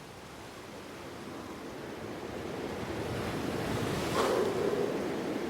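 Ocean surf washing on a sandy beach, a steady rushing noise that swells to a louder surge about four seconds in.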